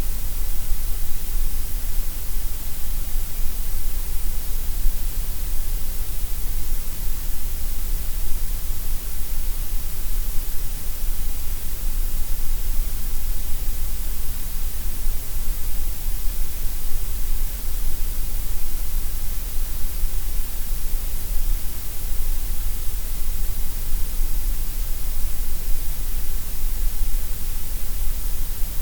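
Synthesized gray noise: a steady, unchanging hiss with no tones or events, heaviest in the deep bass and the treble.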